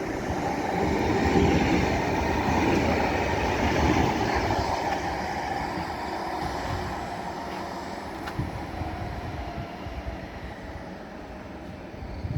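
A train rolling along a station platform. It is loudest a few seconds in and then slowly fades.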